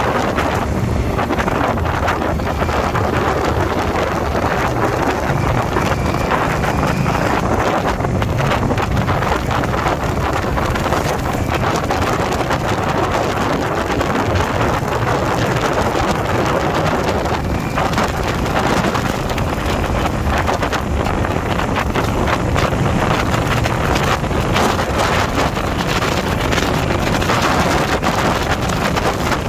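Steady wind rush buffeting the microphone on a moving motorcycle, with the motorcycle's engine and road noise running underneath.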